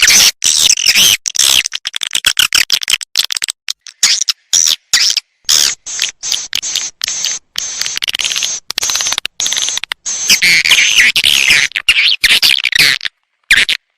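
Recorded swiftlet lure call: rapid, chattering twitters and clicks, broken by frequent short gaps. This is the kind of call sound that is played in swiftlet houses to draw the birds in to nest.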